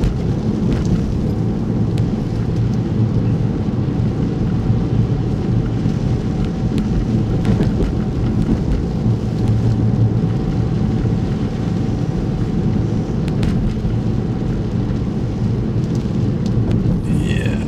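Steady low rumble of a car on the move, heard from inside the cabin: road, engine and wind noise, with a faint steady hum through the middle and a few light clicks.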